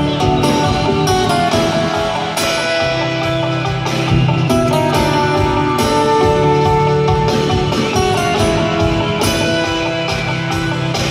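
Live rock band playing an instrumental passage of the song, led by guitar over bass and drums.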